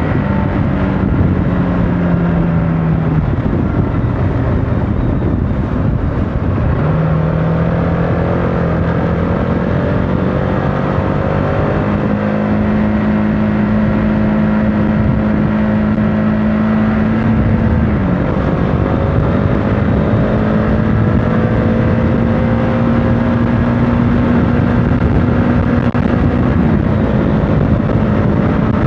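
Motorcycle engine running while riding, over a steady rush of wind and road noise. Its pitch drops sharply about three seconds in, again a little past the middle and once more near the end, and climbs back between the drops, as the rider changes gear and works the throttle.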